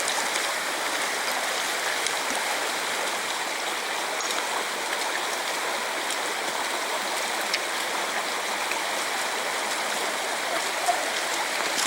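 A small river running steadily, an even rushing water noise.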